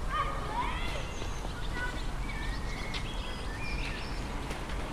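Birds singing: a run of short whistled and chirped notes at shifting pitches, some sliding upward, over a steady low background rumble.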